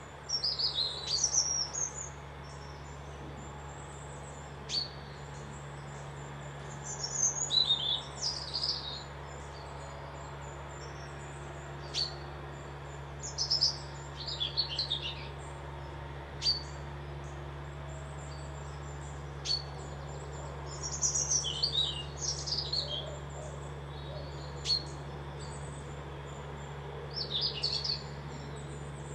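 Wild songbirds singing: a short descending warbled phrase comes back about every six to seven seconds, with single sharp chirps between the phrases. A steady low hum runs underneath.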